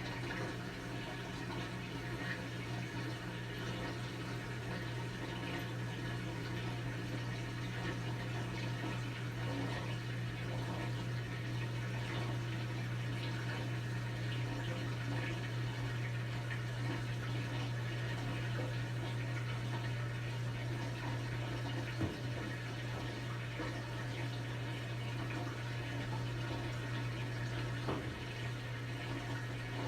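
Brastemp BWK17 17 kg washing machine with water rushing through it and a steady low hum, with two faint clicks near the end.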